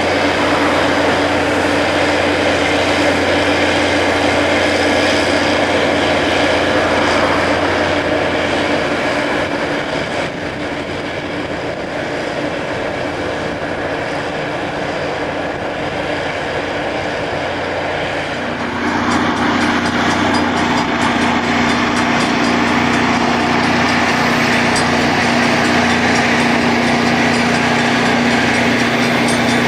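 Rail grinding machine working on the track: a loud, steady rush of grinding noise over the drone of its engine. About 19 seconds in the sound changes abruptly, the drone settling to a slightly lower pitch.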